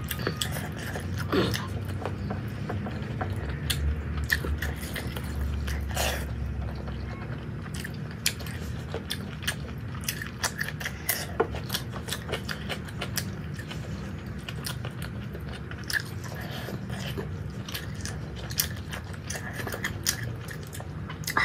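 Close-miked chewing and eating sounds of a person eating rice and curry by hand: many short wet smacks and clicks, with a low steady hum underneath.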